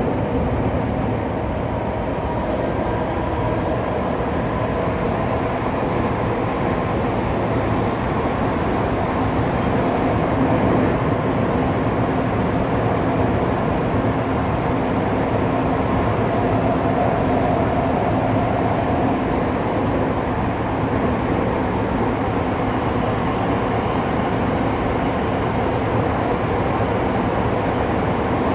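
Onboard running sound of a Saitama Railway 2000 series electric train cruising through a subway tunnel between stations: a steady rumble of wheels on rail with a faint, steady whine.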